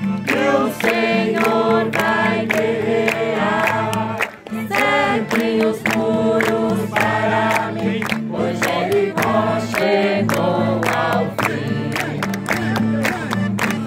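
A group of voices singing a Christian praise song together over instrumental backing with a steady beat.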